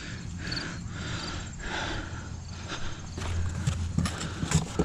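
Hands digging and rummaging through loose soil and straw mulch: irregular rustling and scraping, with a cluster of sharper knocks and clicks in the last couple of seconds. Crickets chirp steadily in the background.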